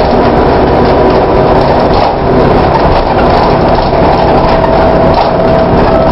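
VDL DB250 double-decker bus running, a loud steady mix of engine and road noise with rattling. A steady high whine comes in about three and a half seconds in and holds on.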